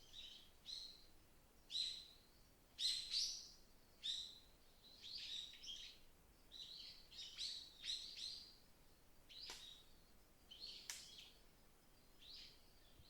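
Songbirds in a forest chirping and calling, with a steady run of short, high, quick notes about once or twice a second, faint overall. Under them runs a faint hiss of wind.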